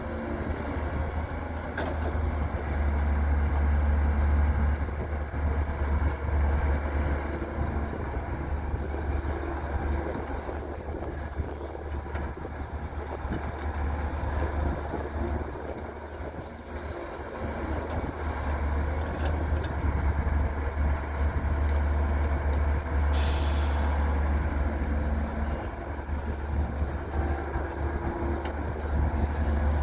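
Heavy diesel engine of a wheeled excavator working under load while loading a dump truck, a low rumble that swells and eases. About 23 seconds in comes a short, sharp hiss of released air.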